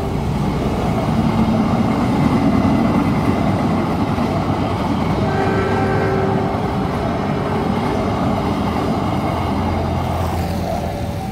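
Passenger train coaches rolling past along the track with a steady rumble and clatter of wheels on rails. The sound dies away about ten seconds in as the last coach clears.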